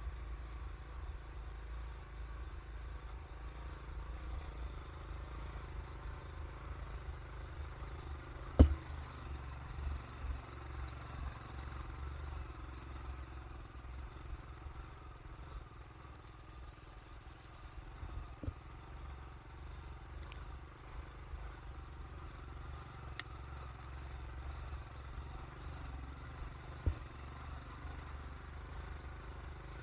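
A vehicle in motion: a steady low rumble of engine and road noise. There is a sharp knock about nine seconds in and lighter knocks later on.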